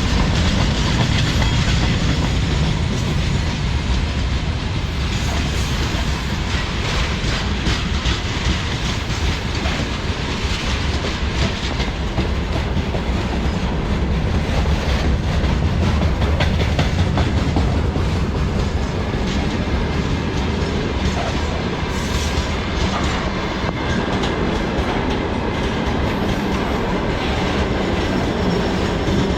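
Freight train wagons rolling past steadily, their wheels clattering over the rail joints in a continuous clickety-clack over a heavy rumble.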